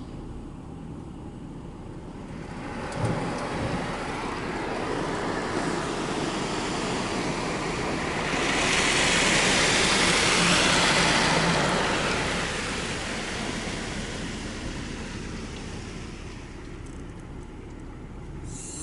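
Ryko SoftGloss XS automatic car wash working over the car: a rushing hiss of water and machinery that builds from about three seconds in, is loudest midway, then fades, with a thud as it starts.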